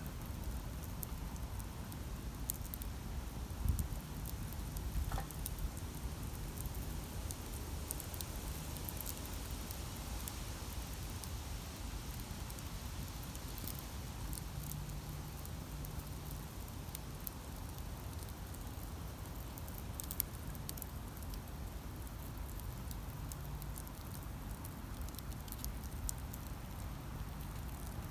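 Wood campfire burning, with scattered crackles and pops over a steady low rumble. A louder knock comes about four seconds in, and a sharp pop about twenty seconds in.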